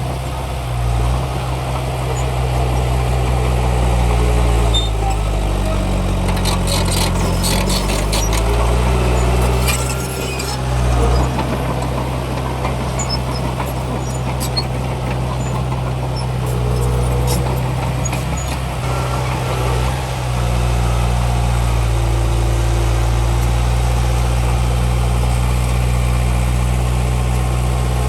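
Heavy diesel engine of earthmoving machinery running steadily, its pitch shifting as the revs change about a third of the way in, with scattered clicks and clanks for a few seconds; from about two-thirds of the way in it holds a steady, slightly louder drone.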